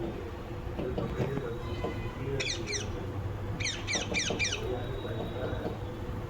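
Ringneck parrot screeching in quick runs of sharp calls that fall in pitch: a pair about two and a half seconds in, then four in a row about a second later.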